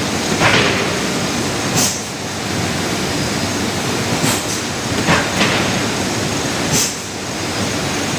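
Hongsing clipper machine running, a steady mechanical clatter with a sharper hissing stroke every one to two seconds, spaced irregularly.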